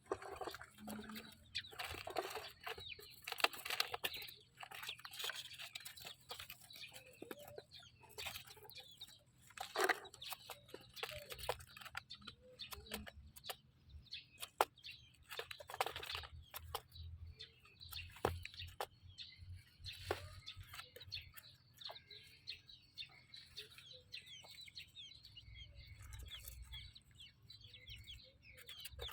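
A mother hen clucking with her chicks peeping in many short, high chirps that grow busier near the end, over scattered sharp taps and scuffs.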